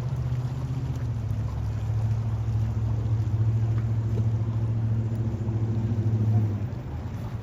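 A low, steady engine hum that swells slightly and then fades away about six and a half seconds in.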